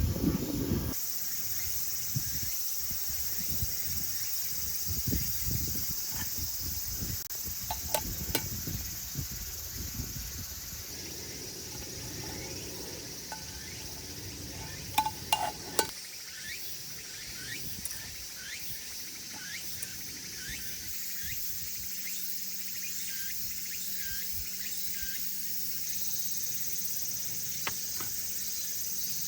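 Insects shrilling steadily, with a few brief clicks and knocks about halfway through.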